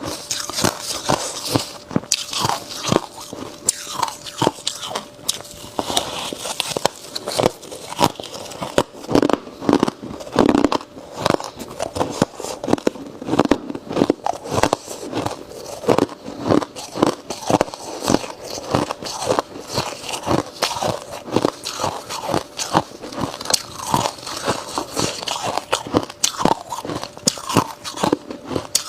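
Ice being bitten and chewed close to the microphone: a dense run of sharp crunches and cracks, several a second, without a break.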